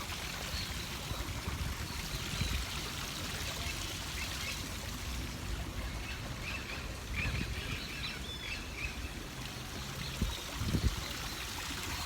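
Steady outdoor noise with uneven low rumbling, and faint bird chirps for a few seconds in the middle.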